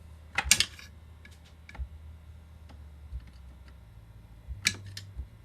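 Sharp clicks and short clattering rattles of small parts and tools being handled on a workbench. The loudest cluster comes about half a second in, a second near the end, and a few single clicks fall between, over a steady low hum.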